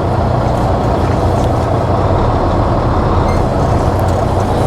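Semi-truck diesel engine running steadily with a low rumble.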